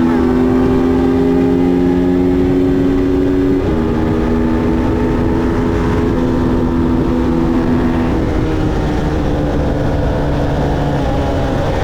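Motorcycle engine running hard at steady high revs. Its pitch drops in a sudden step about three and a half seconds in, typical of a gear change, then sags slowly.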